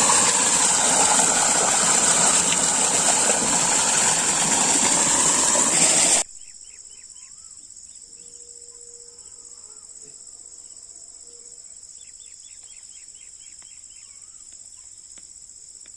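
A loud rushing noise for about six seconds stops abruptly, leaving a steady high-pitched insect chorus of crickets. Two runs of quick, repeated chirps sound over the chorus, one just after the change and one near the end.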